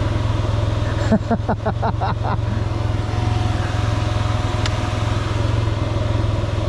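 Motorcycle engine idling steadily, with no revving. A person's voice is heard briefly about a second in.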